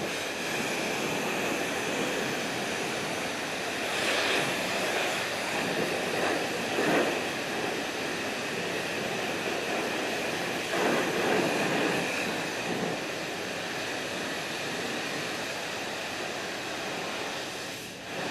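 High-pressure spray wand at a self-service car wash blasting water onto a truck and its snowplow. It makes a steady hissing spray that swells louder several times as the jet plays over the bodywork, with a short dip near the end.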